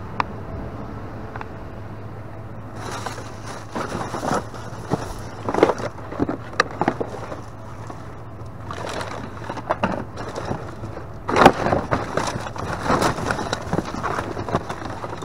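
Rummaging through trash: plastic bags and packaging rustling and crinkling in irregular bursts, with sharp knocks and clatter as items are shifted, over a low steady hum.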